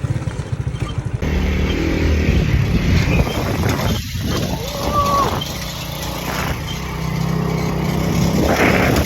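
Motorcycle engine running, its note shifting and changing abruptly about a second in.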